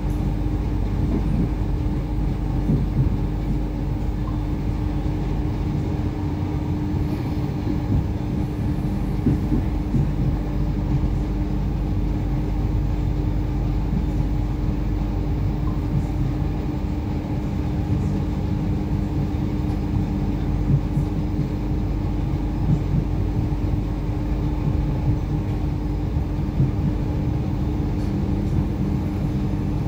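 Interior of an Irish Rail 8520 class DART electric train running along the line: a steady low rumble with a constant hum.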